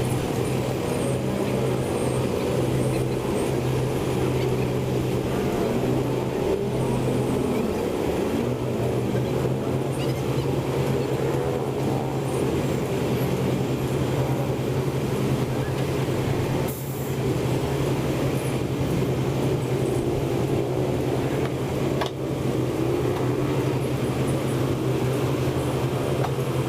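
Heavy construction machinery running steadily, a constant low engine hum with wavering mechanical noise over it, briefly broken twice, about seventeen and twenty-two seconds in.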